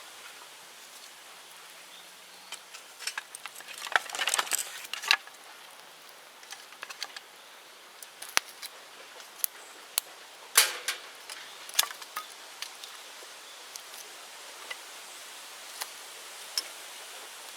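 Open-air bonfire of bamboo and brush crackling over a faint hiss, with irregular sharp snaps: a dense cluster about four seconds in and the loudest snap near the middle.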